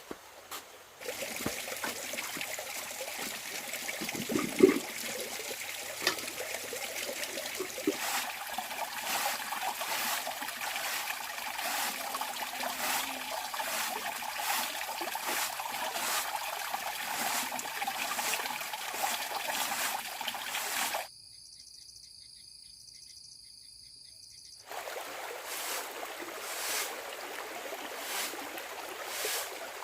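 Water trickling steadily, with a couple of knocks early on; the sound cuts out for about four seconds after the twenty-second mark, then resumes.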